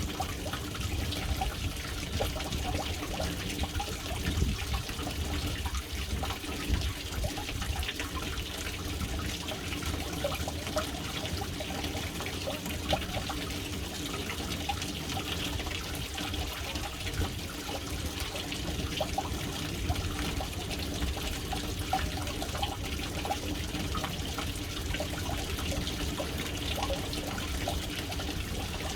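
Water falling steadily into a household water tank, a continuous trickling and splashing with a low rumble underneath.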